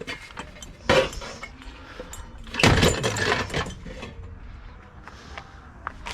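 Scrap metal clanking and rattling as it is handled and loaded onto a trailer: a sharp clank about a second in, then a louder rattling clatter a little before halfway.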